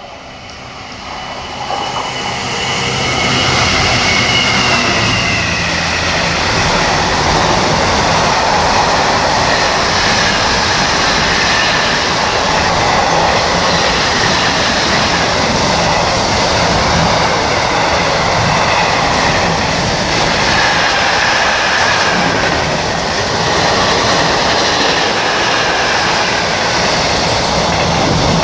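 A Class 66 diesel locomotive, with its two-stroke engine, hauling a freight train through the station at speed. The sound builds over the first few seconds, with a thin wheel squeal, then holds as a steady loud rumble and clatter of wagons over the rails.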